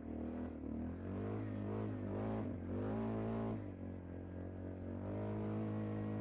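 ATV engine running under throttle, its pitch rising and falling with the revs and dipping briefly about two and a half seconds in.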